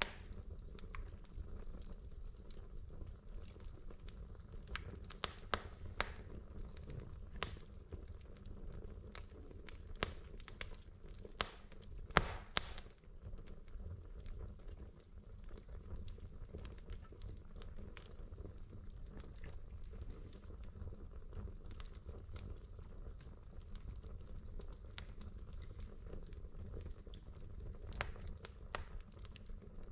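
Wood fire in a fireplace: logs burning with a low steady rumble and irregular sharp crackles and pops, a brief cluster of louder pops about twelve seconds in.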